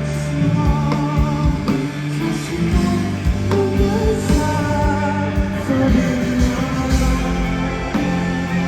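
Live rock band performance: a lead singer over electric guitar, bass and drums with a steady beat, loud through the concert PA.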